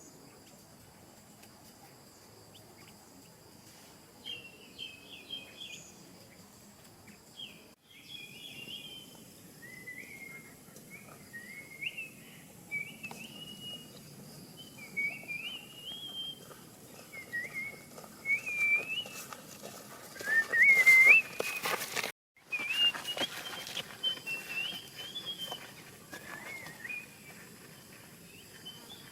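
A songbird giving short, quick warbling chirps and whistles in a long series of phrases. There is a loud burst of noise about two-thirds of the way through.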